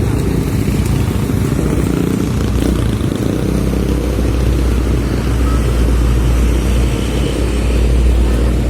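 Heavy diesel road-paving machinery running steadily, a deep rumble that grows stronger about halfway through.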